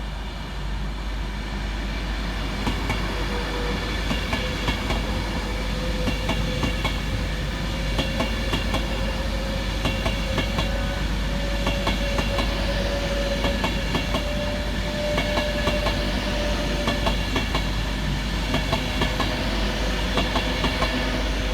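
Class 390 Pendolino electric train passing through the station, its wheels clicking rapidly over the rail joints, with a steady electric whine and a couple of higher whines rising partway through.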